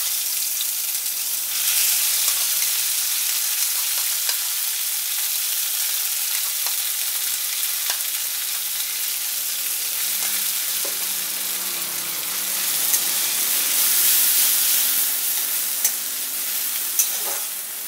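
Kharkol leaf, garlic and green chilli paste sizzling in hot mustard oil in a wok, a steady hiss with a few light clicks of a spatula stirring it.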